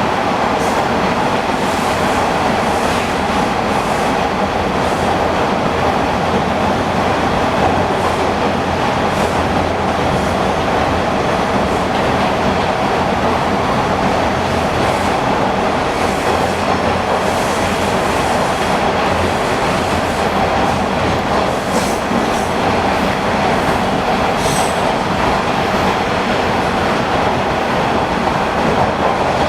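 TTC Bombardier T1 subway car running between stations, heard from inside the car: a steady rumble of wheels on rail with the clack of rail joints, and a few brief high wheel squeals in the second half.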